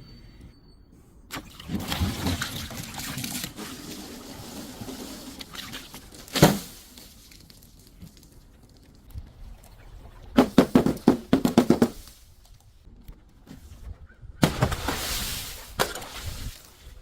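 Objects being crushed in several bouts: a long rough crunching stretch early on, a single sharp crack about six seconds in, a quick run of cracks around ten to twelve seconds, and another crunching burst near the end.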